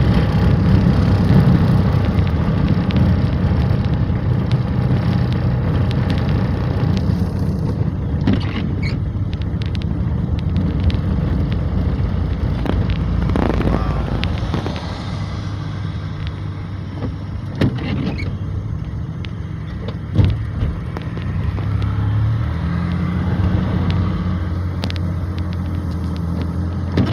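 A car driving: a steady low engine and road rumble, with a few brief knocks scattered through it.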